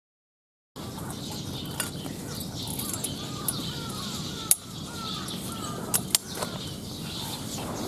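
Birds chirping in a run of short, curved notes over a steady background rumble, with a few sharp clicks. The sound starts abruptly after a moment of silence.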